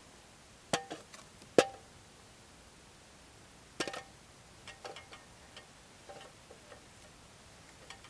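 Metal utensils clinking and tapping against metal cookware: a handful of irregular, sharp strikes with a short ring, the loudest about a second and a half in, then lighter taps.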